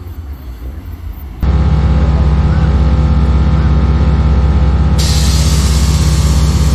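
BMW M4's twin-turbo straight-six idling loudly and steadily, with a fast even exhaust pulse. It cuts in suddenly about a second and a half in, after a quieter low rumble, and a hiss joins near the end.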